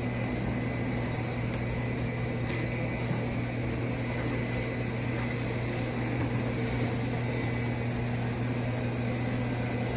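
Suction motor of a Shark AI Ultra robot vacuum system running with a steady hum and a low drone.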